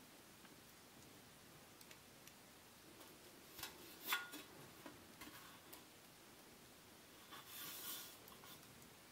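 Faint handling sounds from unpacking ceiling fan parts: a few light clicks and knocks about four seconds in and a short rustle of packaging near the end, otherwise near silence.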